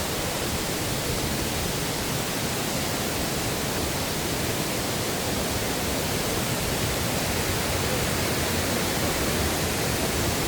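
Steady rushing of cascading water in a mountain stream, a dense even hiss without any break.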